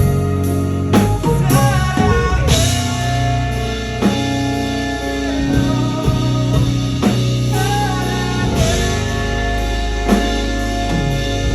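Live band playing a song: guitar and bass over a drum kit keeping a steady beat, with a bending melodic lead line on top.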